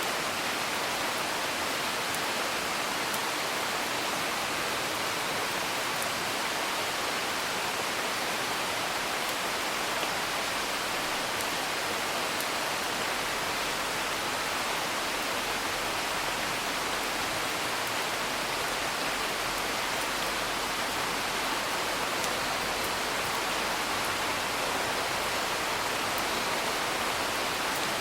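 Steady rain falling, with faint scattered crackles of a wood fire.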